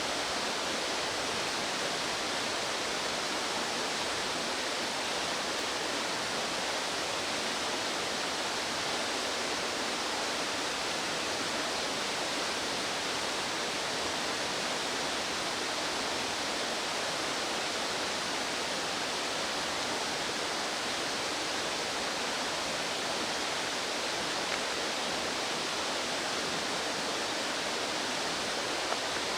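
Steady rush of fast-flowing stream water, an even hiss that does not change.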